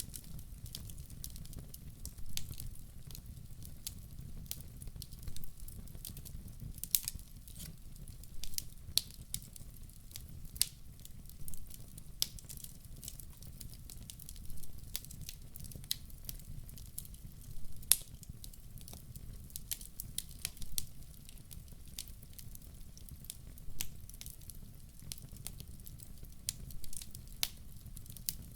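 Wood fire crackling: irregular sharp pops and snaps over a low, steady rumble of the burning, with one louder snap about 18 seconds in.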